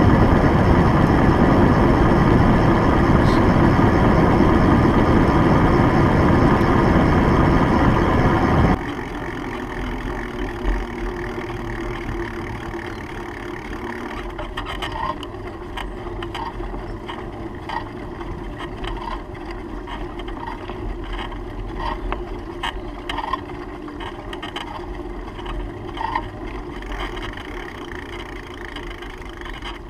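Wind rushing over the microphone of a moving bicycle. It drops suddenly about nine seconds in to a quieter steady outdoor noise, with short high chirps in the second half.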